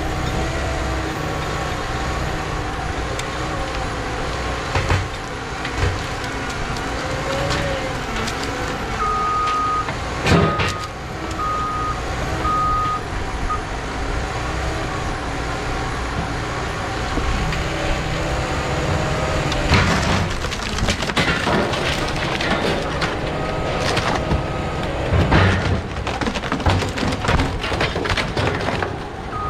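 Cat D6K2 bulldozer's diesel engine running hard while pushing timber, with sharp cracks and knocks as dead hardwood breaks and comes down on the machine. Its reversing alarm beeps in spells while it backs up, about a third of the way in and again near the end.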